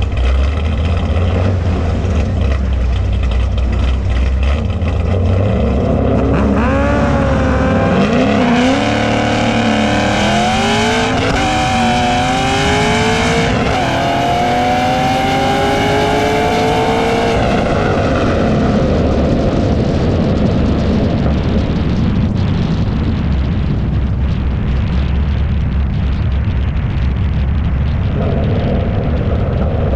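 Drag racing car engine rumbling, then launching and accelerating hard down the strip, its pitch climbing in steps and dropping back at each gear shift before fading away. A low engine rumble continues afterwards.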